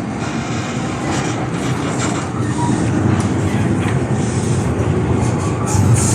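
MTR M-Train electric metro train running along the track, with steady wheel-and-rail rumble and clatter that grows gradually louder.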